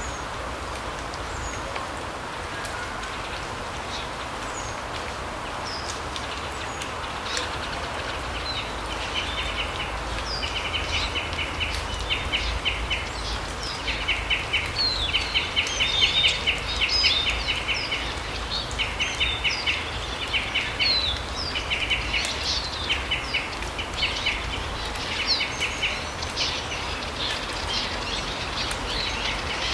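Forest birds calling: from about eight seconds in, many short, rapid trills and scattered high chirps come thick and fast, over a steady rushing background.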